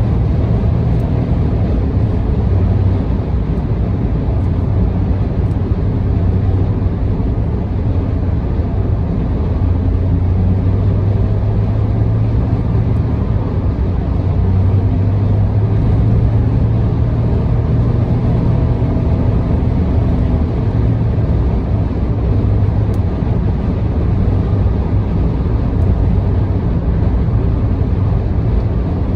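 A car cruising at expressway speed: steady road and tyre noise with a low engine and drivetrain hum, unchanging throughout.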